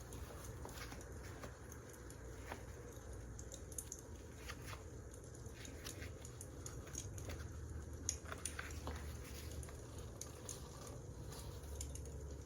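Wood fire crackling: irregular small pops and snaps over a low steady rumble, with a sharper pop about eight seconds in.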